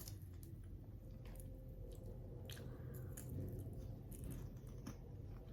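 A person chewing crunchy freeze-dried Jolly Rancher candy, with scattered faint crunches and clicks.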